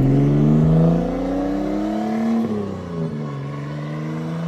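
Car engine accelerating hard, pitch climbing for about two and a half seconds, then dropping sharply at an upshift and climbing again more slowly.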